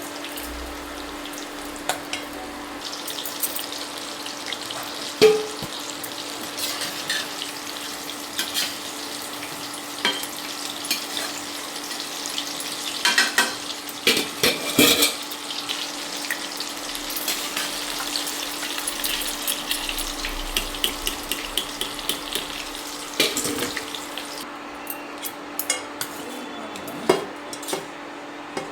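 Chicken pakoras deep-frying in hot oil: a steady sizzle full of crackling pops, with occasional knocks and scrapes of a spoon turning them in the pan. The sizzle thins out near the end.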